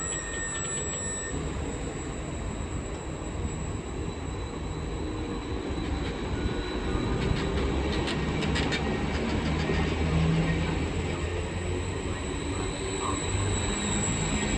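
An electric train running through on the rails, with a steady rumble and a run of clicks about halfway through.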